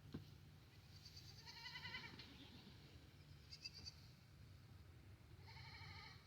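Goats bleating faintly: a quavering call about a second in, a short higher call midway, and another quavering call near the end.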